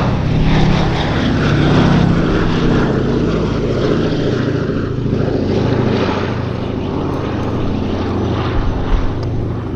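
Boeing B-17G Flying Fortress's four Wright Cyclone radial piston engines droning steadily as it flies past, the propeller drone easing off slightly toward the end.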